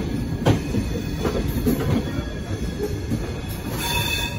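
Passenger train running on the track: a steady low rumble with a few sharp knocks of wheels over rail joints, and a brief high-pitched wheel squeal near the end.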